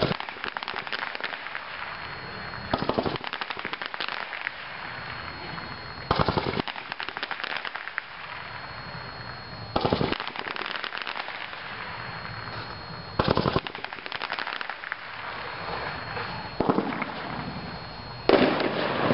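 A 140-shot consumer firework cake, Brothers Firebrand, firing: a steady run of rapid pops and crackles, with louder volleys of reports about every three to four seconds.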